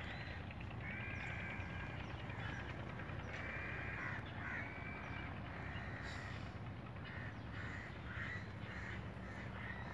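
Birds calling over and over: a run of calls, each under a second long, coming roughly once a second and growing shorter and choppier near the end, over a steady low background rumble.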